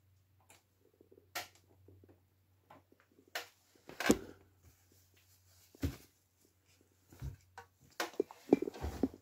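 Scattered short knocks and clicks, with a louder knock about four seconds in and a quick flurry near the end, over a steady low hum that stops shortly before the end.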